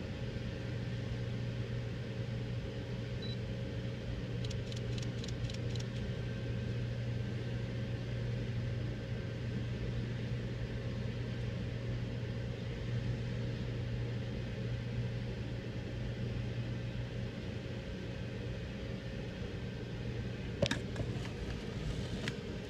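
Car engine idling, heard from inside the cabin as a steady low hum. There is a short run of faint ticks about five seconds in and a sharp click near the end.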